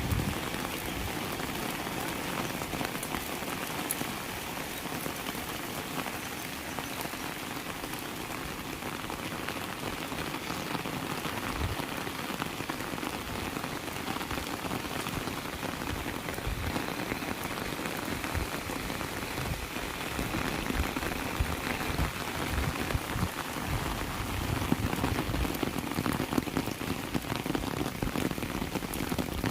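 Heavy rain falling steadily, a dense patter of drops striking surfaces, growing a little heavier in the last third.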